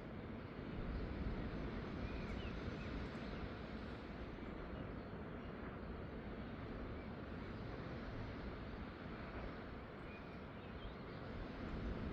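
Steady outdoor coastal ambience: a deep, even rushing noise that swells a little about a second in and again near the end, with a few faint bird chirps over it.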